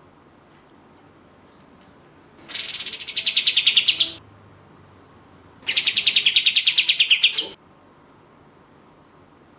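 Kapas tembak songbird giving two long, rapid trills about a second and a half apart, each pulsing fast and falling in pitch: the 'tembak panjang' burst song prized in this bird.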